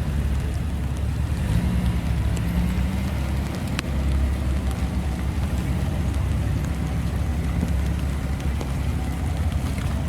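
Classic Japanese car's engine running with a steady, deep exhaust rumble, with a single sharp click about four seconds in.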